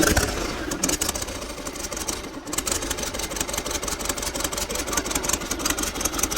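Freshly rebuilt Caterpillar four-cylinder diesel engine running steadily, with a rapid, even knock of its firing strokes.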